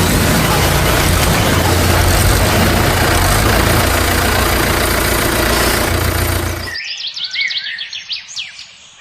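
A heavy vehicle engine, a tractor's in this cartoon, runs steadily with a deep low hum. About seven seconds in it cuts off suddenly, leaving birds chirping.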